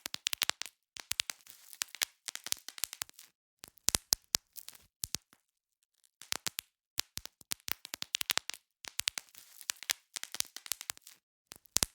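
Bubble wrap being popped: irregular clusters of sharp snapping pops with crinkling of the plastic sheet between them, with a brief pause about six seconds in.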